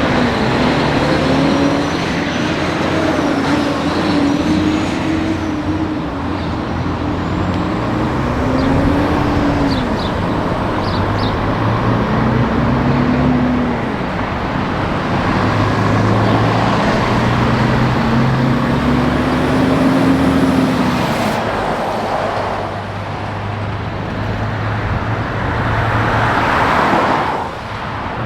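Heavy truck diesel engines pulling through the gears: the engine note climbs and drops several times, over steady road traffic noise. The sound falls away sharply near the end.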